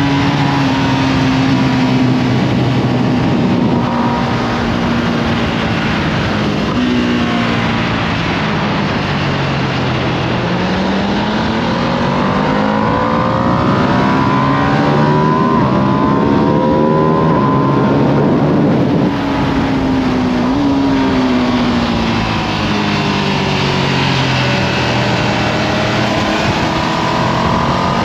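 Ducati Panigale V2S 890 cc V-twin under hard acceleration on track, pitch rising through the revs, then dropping at gear changes and falling under braking, over a steady rushing noise.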